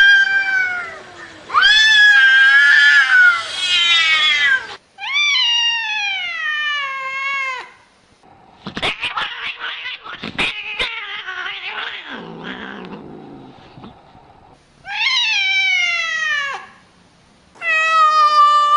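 Cats meowing and yowling in a string of long, drawn-out calls that bend and fall in pitch. In the middle the calls give way to a stretch of scratchy noise and sharp clicks, and a long, steady yowl starts near the end.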